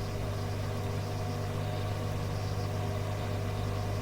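Steady electrical hum with evenly spaced overtones over a bed of hiss: the background noise of a radio recording between transmissions.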